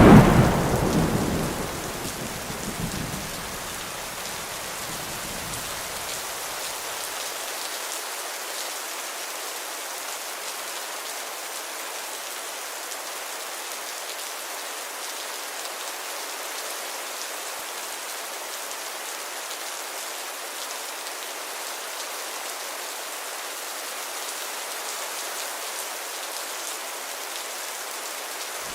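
Heavy, steady rain. A loud thunderclap comes right at the start, and its rumble dies away over the first several seconds.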